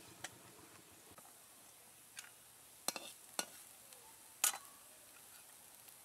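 Spinach and gram-flour omelet patties frying slowly on low heat in a little oil in a kadai, a soft steady sizzle. A few sharp clinks from the cook's utensils cut through it, the loudest about four and a half seconds in.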